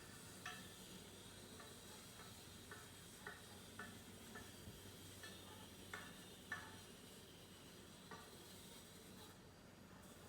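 Near silence: faint, irregular ticks and clicks, about ten over several seconds, over a low background hiss.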